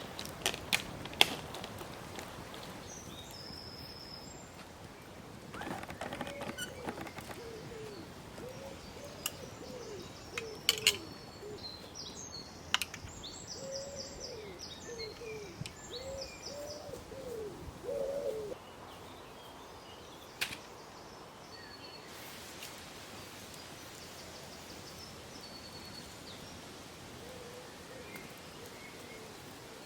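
Woodland birds calling: a series of short, low, arching calls repeated from about six seconds in until about eighteen seconds, with higher chirps from small birds around them. Scattered sharp snaps and clicks.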